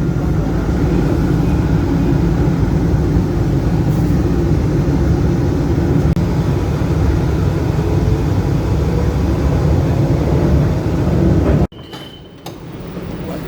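Tram running, heard from inside the car: a loud, steady low rumble that cuts off suddenly about three-quarters of the way through, leaving quieter background.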